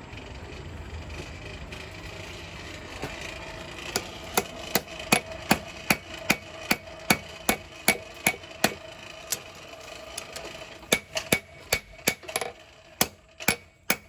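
Hand hammer forging a hot knife blade on an anvil: after a few seconds of steady background noise, a run of ringing hammer blows at about two and a half a second, a pause of over a second, then a second run of blows.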